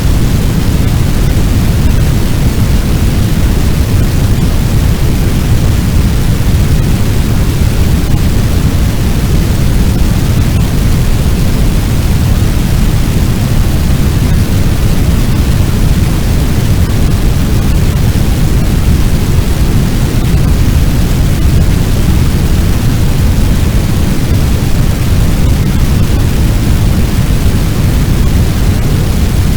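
Fire-like sound effect: a loud, steady, deep rumbling noise like a large blaze, with little treble and no crackles or changes.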